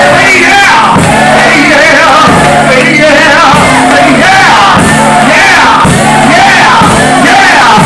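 Church music with steady held low chords, and voices shouting and singing over it in an excited, praise-filled climax.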